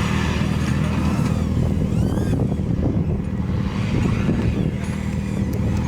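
Off-road 4x4's engine running steadily.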